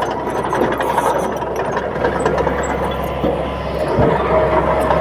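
Bulldozer's diesel engine running steadily under work.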